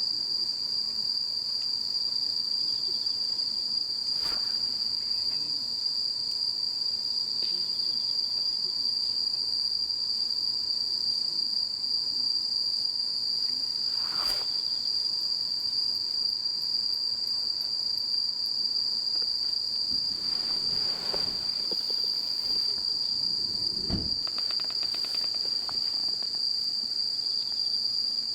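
Japanese bell crickets (suzumushi) singing in a steady high-pitched chorus through the night, with a few faint clicks and soft knocks.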